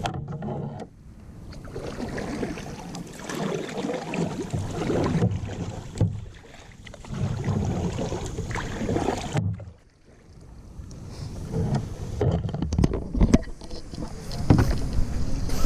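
Wind rumbling on the microphone in a kayak, with a few sharp knocks from handling.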